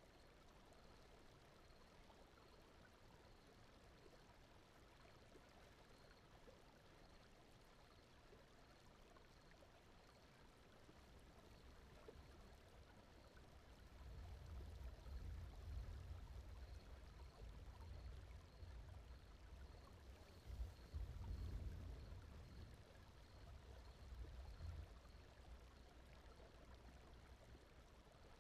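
Very faint flowing-water ambience, a soft steady rush like a stream, with a low rumble that swells through the middle and eases back near the end.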